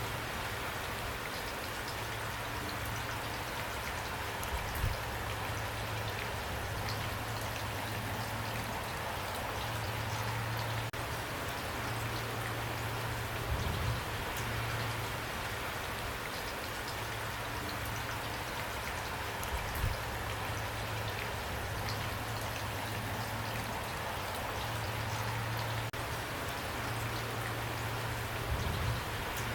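Steady rain falling, with a steady patter of drops and a few brief low thuds about 5, 14, 20 and 28 seconds in.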